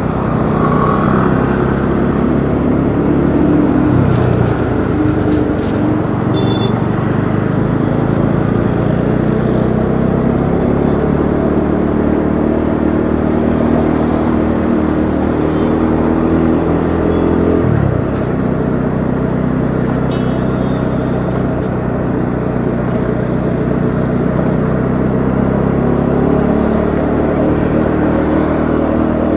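Bajaj Dominar 400's single-cylinder engine running on the move, heard from the bike. Its note climbs steadily for over ten seconds, drops abruptly about eighteen seconds in, then climbs again near the end, over road and wind noise.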